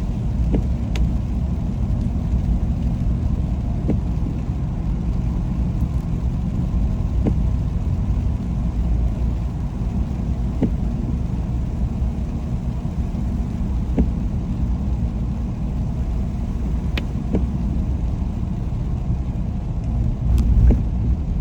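Steady low rumble of a car driving, heard from inside the cabin, with a few faint clicks scattered at irregular moments.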